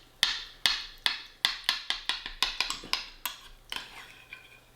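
Cutlery clinking against a dish: a quick, irregular run of sharp taps and knocks, thickest in the middle.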